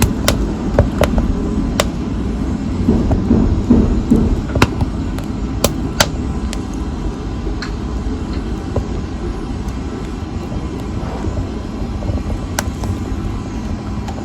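Wood fire burning in a fireplace: a steady low rush of flames with scattered sharp crackles and pops, more frequent in the first half.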